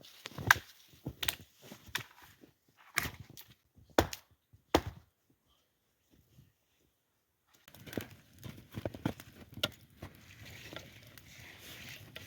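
Firewood being chopped: a run of sharp blows on wood, about a second apart. After a short gap, lighter knocks follow.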